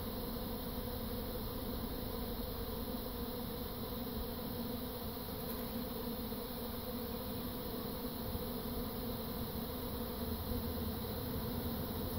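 A swarm of honey bees buzzing in the air, a steady, dense drone of thousands of wings as the colony leaves its hive.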